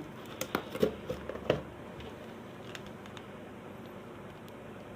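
Hands handling a small hair dryer and its packaging: a few light clicks and knocks in the first second and a half, then faint handling noise.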